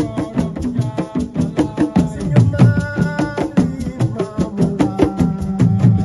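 Assiko band music: a fast, dense rhythm of drum and percussion strokes with a pitched melody over it.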